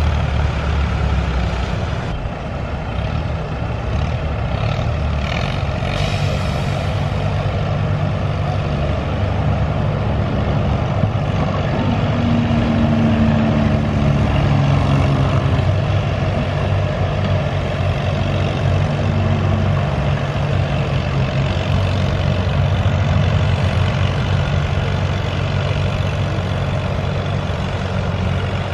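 Tractor engine running steadily and loudly, with a deep low drone throughout and a brief rise in pitch partway through.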